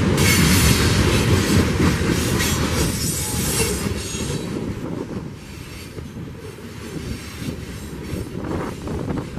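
Freight train of covered hopper cars rolling past, steel wheels clattering on the rails with a high-pitched wheel squeal. About four to five seconds in, the sound drops to a quieter, lower rumble.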